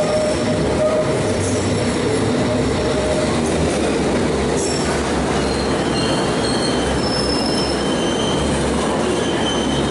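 London Underground train running through the platform: a steady loud low rumble with high-pitched wheel squeal on the rails coming and going.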